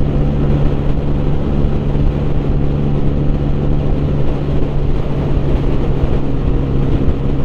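Honda CB125R's single-cylinder engine, fitted with a Leovince LV10 exhaust, running at a steady cruising speed with an even exhaust note, heard from the rider's position over low wind and road rumble.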